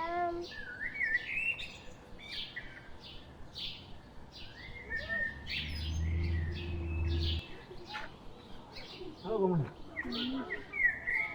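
Small birds chirping repeatedly, with many short, high calls. A steady low hum sounds in the middle for about two seconds and cuts off suddenly, and a louder call slides down in pitch near the end.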